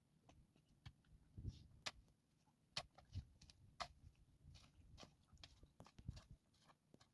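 Faint, irregular knocks and clicks with a few soft thuds, as of hands working with wood or tools.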